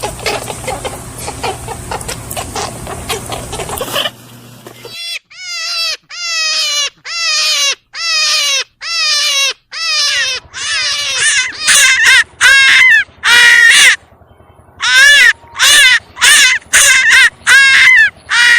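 A rabbit squealing: a quick series of short, high, piercing calls, each falling in pitch, repeated about once every second or less and getting louder in the second half. A denser, noisier stretch of calls over a low hum comes first.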